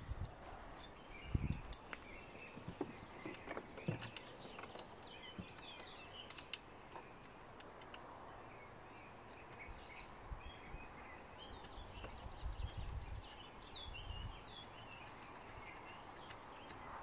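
Small birds chirping and singing in the background, with scattered light clicks and knocks as parts of a compound miter saw are handled, and a few low rumbles.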